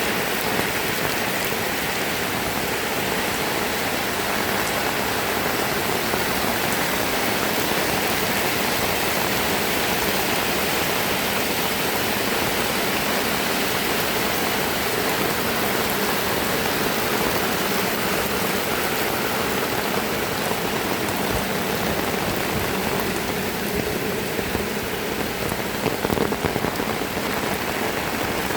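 Heavy rain falling steadily: a dense, even wash of drops hitting surfaces, with no letup.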